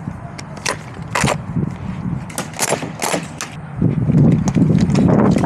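Scattered sharp clacks of airsoft guns firing, single shots at irregular intervals. From about four seconds in, a louder low rumble comes in under the shots.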